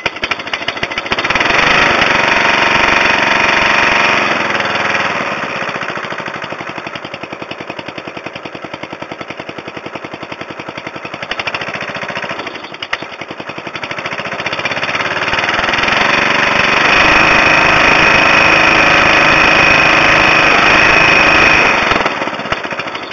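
Briggs & Stratton 12 hp I/C mower engine running, its rapid firing strokes even: revved up, dropped back to a lower speed for several seconds, revved up again, then winding down near the end as it runs low on gas.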